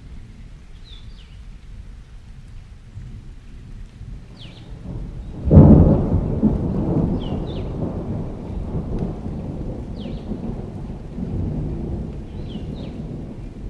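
Thunderstorm ambience: steady rain with low rumbling thunder, then a sudden loud thunderclap about five and a half seconds in that rolls away slowly. A bird chirps briefly every few seconds over it.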